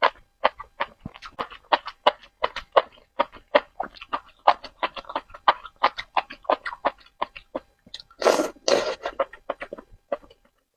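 Close-miked eating of spicy noodles: rapid wet chewing and lip smacks, with a louder, longer noodle slurp about eight seconds in.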